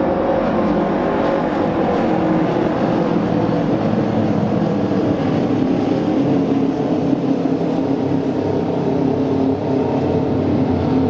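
Auto race motorcycles' engines running steadily together on the oval track, with several engine pitches layered and no breaks.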